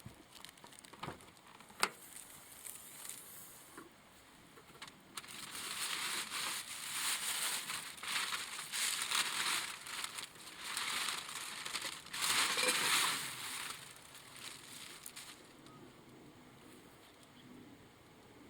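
Crinkling, crunching rustle, like dry material being crumpled or handled, for about ten seconds in the middle. Two sharp snaps come before it, near the start.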